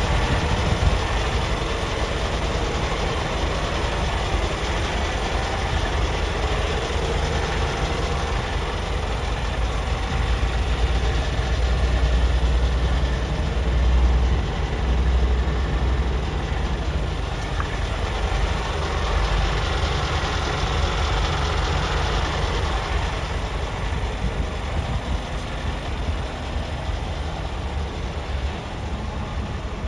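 Scania P360 truck's diesel engine running with a steady low rumble, swelling a little for a few seconds near the middle.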